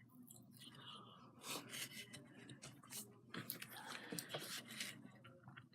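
Faint scraping and rustling of craft materials being handled on a tabletop, with a few light clicks.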